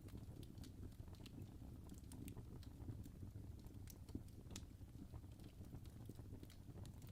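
Fire crackling softly: irregular small snaps and pops over a steady low rumble.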